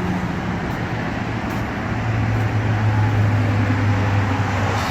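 A steady low engine hum, rising about a second in and then holding, over a haze of outdoor background noise.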